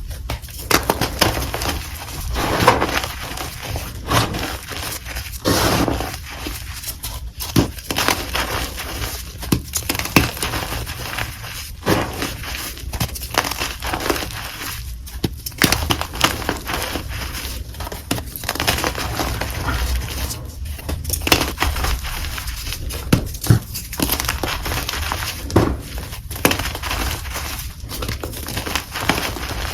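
Dyed chalk being crushed and crumbled by hand: a run of irregular crunches and gritty crumbling, with sharper cracks as chunks break.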